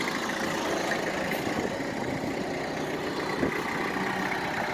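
Farm tractor engine running steadily, with one light knock about three and a half seconds in.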